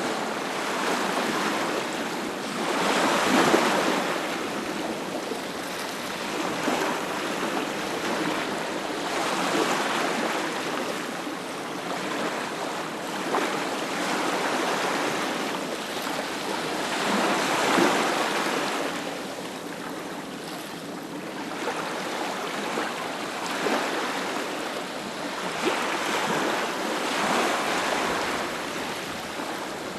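Ocean surf washing onto a beach, the rushing water swelling and easing in waves every few seconds.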